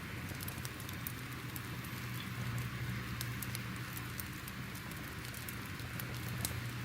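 Crackling fire: a steady hiss and low rumble with frequent small, sharp pops and crackles.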